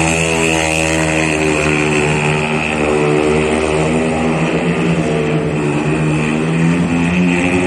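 Speedway motorcycle's 500 cc single-cylinder methanol engine running hard as the bike laps the track, its pitch rising and falling a little.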